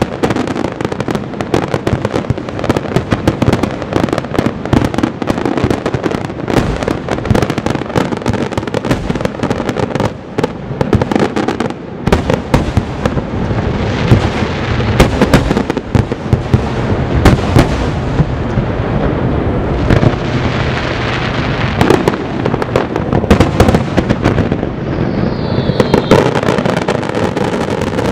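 Fireworks finale: a dense, continuous barrage of aerial shells bursting in rapid succession, with crackling shells filling in from about halfway and a short falling whistle near the end.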